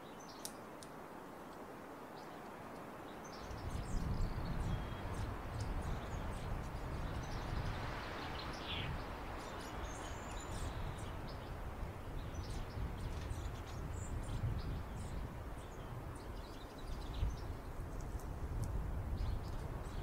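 Small songbirds giving short, scattered high chirps and tics, over a low rumble that sets in about three and a half seconds in.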